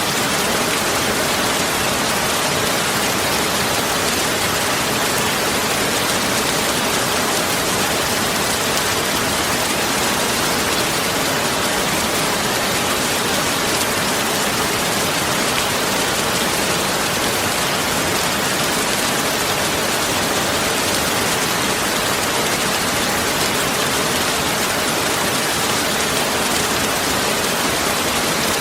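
Steady, even rushing hiss that does not change, of the rain-like kind.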